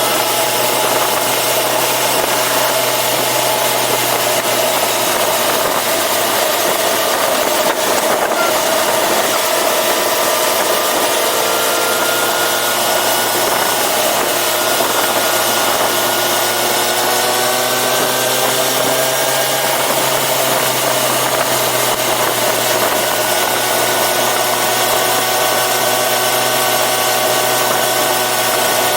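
Yamaha FZ6R's 600 cc inline-four engine running while the motorcycle is ridden, its pitch rising and falling gently with the throttle, over a steady rushing noise.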